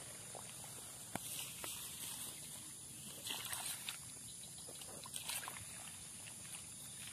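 Faint rustling and sloshing of someone moving through swamp water and vegetation, with a few light clicks and knocks.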